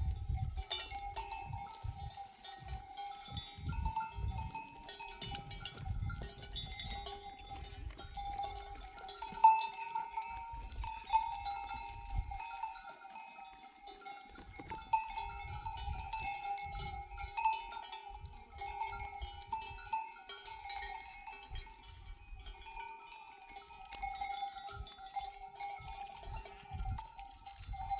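Many sheep bells ringing and clanking at once, a continuous jangle as a flock moves.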